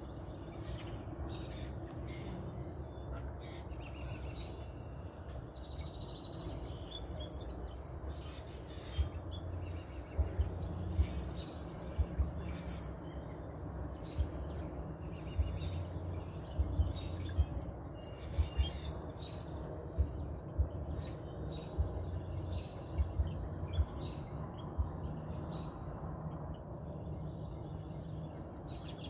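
A flock of small birds chirping and calling, many short high calls overlapping throughout. From about nine seconds in, low bumps sound now and then, the loudest events.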